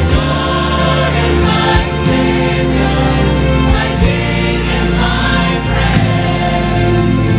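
A choir singing a Christmas song over a steady instrumental accompaniment with a sustained bass line.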